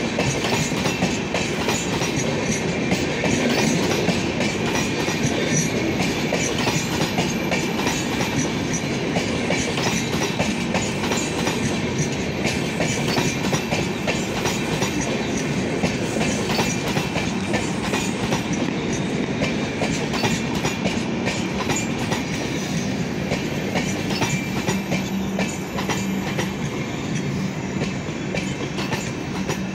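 Tejas Express passenger coaches rolling past on the adjacent track: a steady rumble of steel wheels on rail with a dense, continuous clatter as the bogies cross the rail joints.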